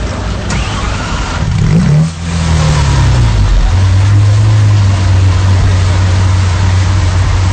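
Lamborghini Aventador's V12 engine revs once about two seconds in, the pitch rising and then sinking back, and settles into a steady, loud idle.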